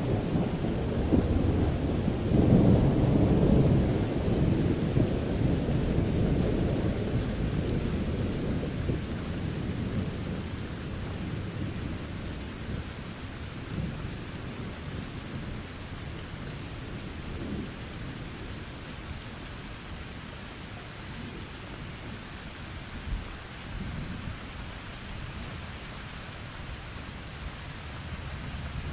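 Thunderstorm: a long roll of thunder swells about two seconds in and slowly rumbles away over some ten seconds, over steady rain. A short low thump comes near the end.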